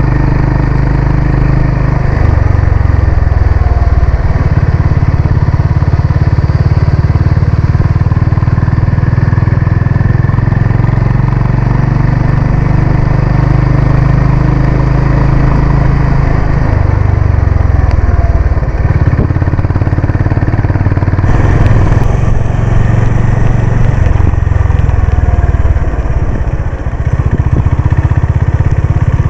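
Honda CB350 RS's single-cylinder engine and exhaust running steadily under way, its note shifting up and down several times with the throttle.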